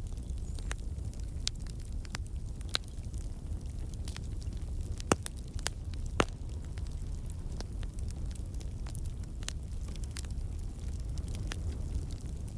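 Campfire of burning logs: a steady low rumble of the flames with irregular sharp pops and crackles from the wood, the loudest pops about five and six seconds in. The crackling is the water and sap in the wood turning to steam and escaping.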